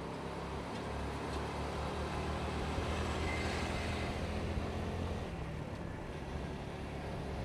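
Motorcycle engine running under way, heard from the rider's position with road and wind noise. The engine note grows louder over the first few seconds, then eases about five seconds in.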